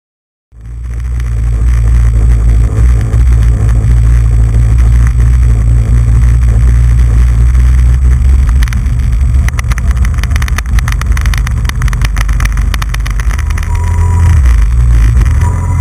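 Jet ski running on the water, its engine drone mixed with heavy wind rumble on the action camera's microphone. It cuts in suddenly about half a second in and stays loud and steady, with a stretch of crackling about nine to thirteen seconds in.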